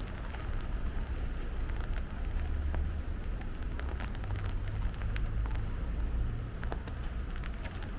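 Steady rain falling, with many scattered sharp drops and drips and a low rumble underneath.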